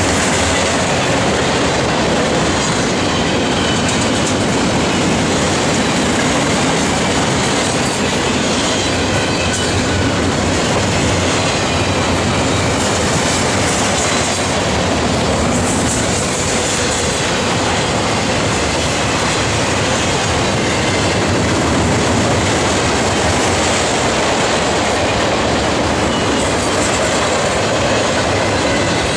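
Double-stack intermodal freight train passing close by: a steady loud rumble and clatter of steel wheels on the rails from the well cars, with a faint high squeal of wheels now and then.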